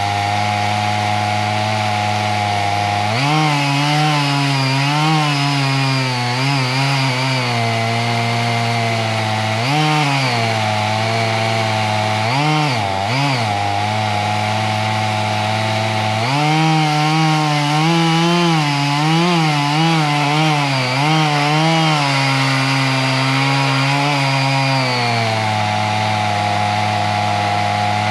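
Gasoline chainsaw running at full throttle, cutting into dead oak, its engine pitch wavering and dipping under load. It swings up and down briefly a couple of times partway through.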